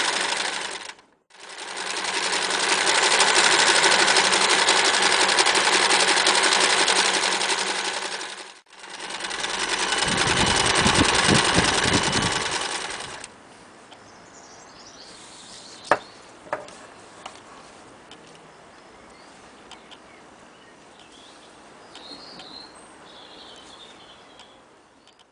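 Frister Rossmann 904 electric sewing machine running at speed in three runs, with brief breaks between them. It stops about 13 seconds in, leaving a quiet stretch with a few sharp clicks.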